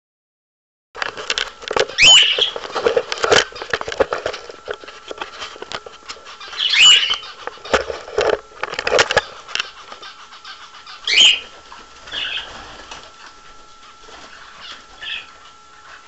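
Pet birds giving three loud, sharp upward-sweeping calls, about two, seven and eleven seconds in, with softer chirps near the end. Between the calls come knocks and rustling in nesting material as the camera is handled, mostly in the first ten seconds.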